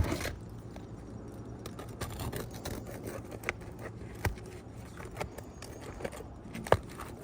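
Brittle asphalt shingles being worked loose by hand and tool: scattered scrapes and cracks with sharp knocks, the loudest at the very start and again near the end. The shingles are brittle enough that they rip as soon as they are lifted.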